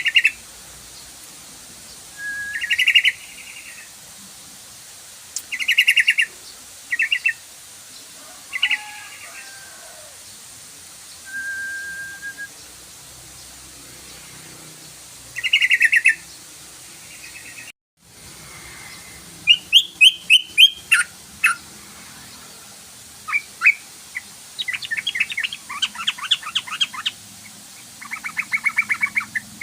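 Yellow-vented bulbul (trucukan) calling: short, bubbly chattering phrases repeated every few seconds. After a brief break about two-thirds of the way in, the calls become fast runs of chattering notes.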